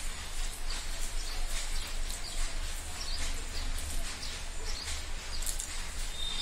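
Close-up eating sounds of rice and curry eaten by hand: irregular wet chewing and lip smacks, with fingers mixing rice on a steel plate.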